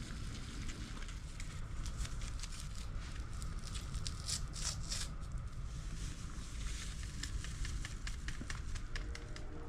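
A pot of water heating on a small camping stove, crackling and ticking as it nears the boil, over a low steady rumble.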